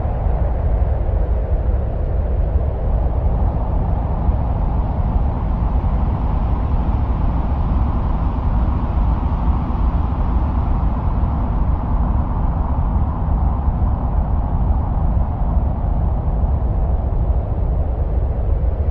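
Steady, low, wind-like rumble with a softer hiss above it, presented as the sound of the winds on Mars.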